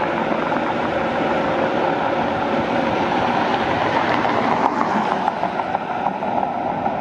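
Steady road noise of moving vehicles, an even, continuous rushing hiss.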